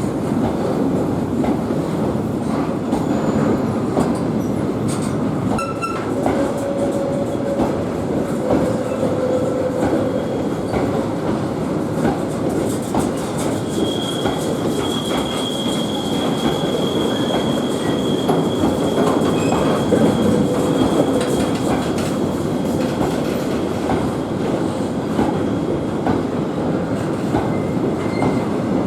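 A train rolling past at close range, its wheels making a steady loud rumble on the rails. A thin high wheel squeal sounds for several seconds from about halfway through.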